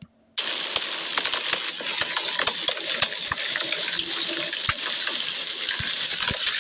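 Heavy rain falling: a dense, steady hiss full of sharp individual drop impacts, cutting in suddenly about half a second in.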